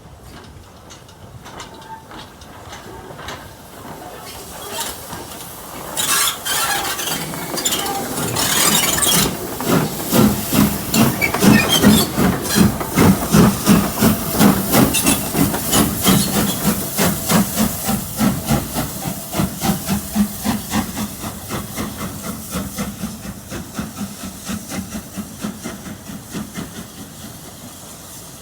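Steam locomotive working: loud steam hissing, then a run of regular exhaust chuffs about two a second that swell and then fade away gradually.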